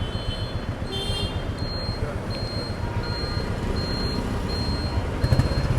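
Vehicles idling in stopped city traffic, a steady engine rumble with a short high electronic beep repeating about every three-quarters of a second, like a reversing alarm. Near the end the engine rumble grows louder.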